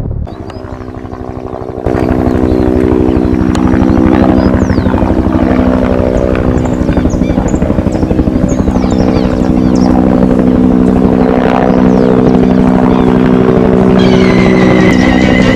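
A loud, steady engine-like drone with a low pitched hum and fast even pulsing, with faint short chirps high above it; a higher whine joins near the end.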